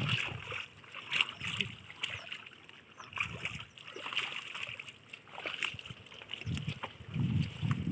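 River water splashing and sloshing in irregular bursts, as when people wade and work a fishing net in the shallows.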